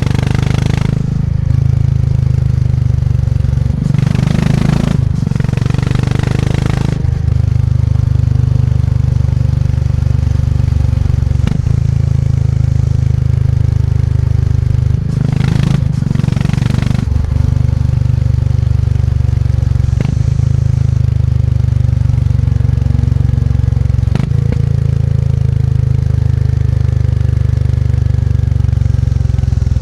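Motorcycle engine running under way, its low steady note changing in steps several times as the rider works the throttle and gears. There are brief rushes of wind or road noise twice.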